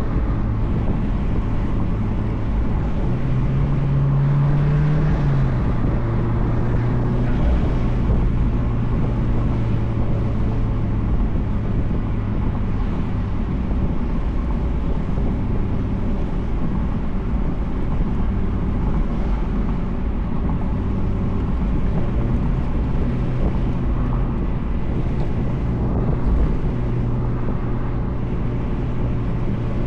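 2004 Mazdaspeed Miata's turbocharged 1.8-litre four-cylinder engine and cat-back exhaust running steadily while driving with the top down, with road and wind noise. The engine note rises briefly a few seconds in, then settles back to a steady drone.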